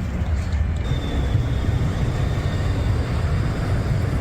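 Steady low rumble of street traffic, with a faint thin high whine joining about a second in.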